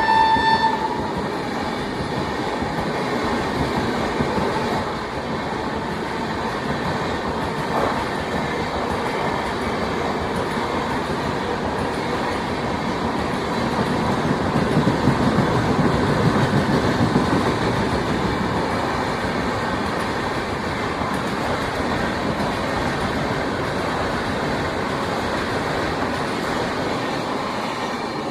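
Express passenger train running through a station at speed. A horn note ends about a second in, then the coaches roll past with a steady rumble and rush of wheels on rail, loudest about halfway through.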